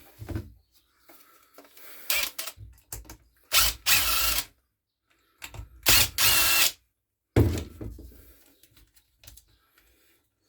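A cordless power driver runs in two bursts of about a second each, undoing the fixings to take the carburettor off a petrol strimmer. Clicks and knocks of tools and parts being handled come between and after them.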